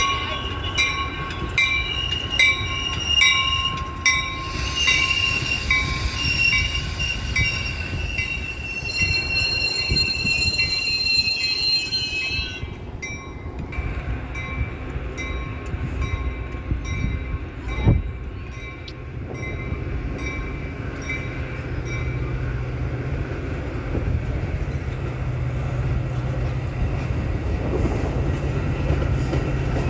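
Train passing, with steady high squealing tones and a regular ringing stroke about twice a second that stop about 13 seconds in. A lower steady hum follows for the rest of the time.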